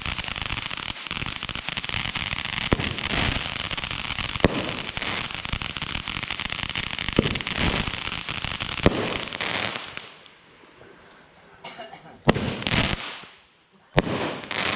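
Consumer fireworks going off: a dense, continuous crackle with sharp bangs every couple of seconds, which dies away about ten seconds in, followed by two or three separate bangs near the end.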